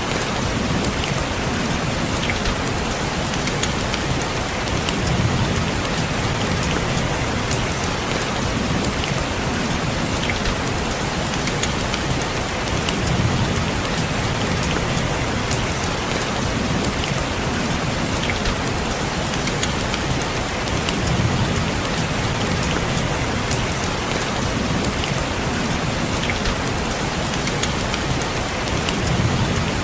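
Steady rain falling on a window pane, a dense even patter with scattered sharper drop ticks. A low rumble swells and fades about every eight seconds.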